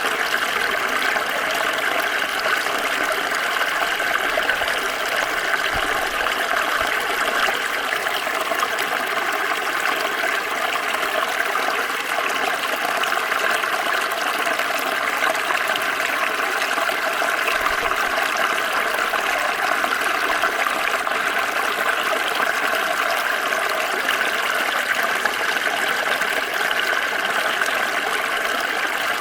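Small stream flowing and trickling over stones, a steady, even rush of water.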